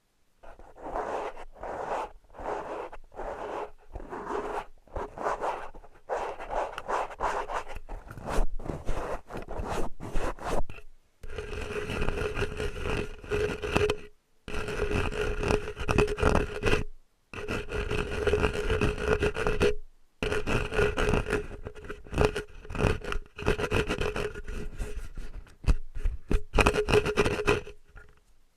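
Close-up scraping and scratching strokes in bursts with short pauses. From about eleven seconds in, a steady pitched ring sounds through most of the strokes.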